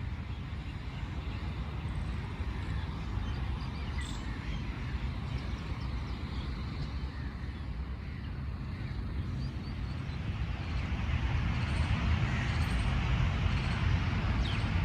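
Small birds chirping faintly over a steady low rumble, with a hiss that swells in the second half.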